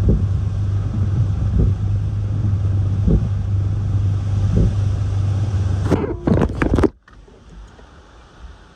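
Hurricane-force wind buffeting a microphone: a loud, steady low rumble with gusty thumps. It cuts off abruptly about seven seconds in, leaving a faint, even wind hiss.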